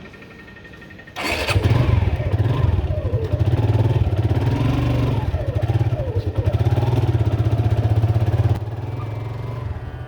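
Motorcycle engine starting suddenly about a second in, then running and revving up and down, settling lower near the end.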